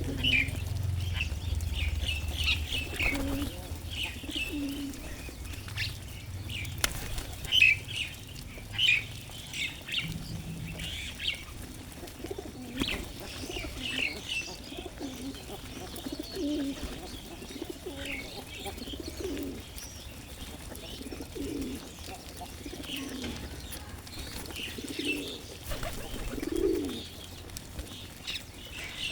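Birds gathered to feed: pigeons cooing and wings flapping, with many short high chirps from smaller birds throughout.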